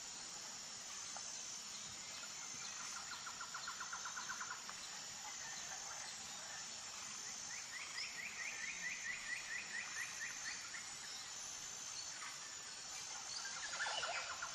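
Quiet outdoor nature ambience: a steady high hiss with an even, insect-like pulsing, broken by two rapid trills of short repeated notes, one about three seconds in and a higher, longer one around eight seconds.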